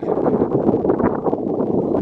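Strong wind buffeting the microphone: a loud, continuous rumbling rush that flutters rapidly in level.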